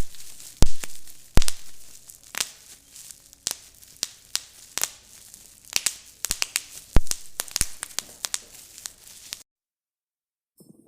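Continuous crackling, dotted with frequent sharp pops and clicks, that cuts off abruptly about a second and a half before the end.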